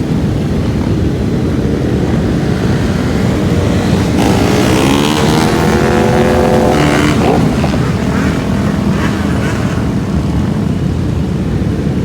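A group of motorcycles riding by, a steady mix of engine noise; from about four seconds in one bike passes close, its engine note rising and then falling, and it fades by about seven and a half seconds.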